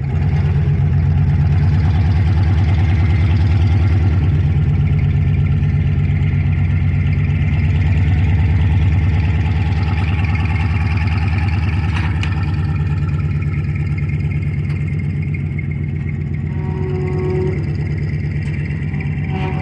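Pickup truck engine running steadily at low revs, with one sharp click partway through.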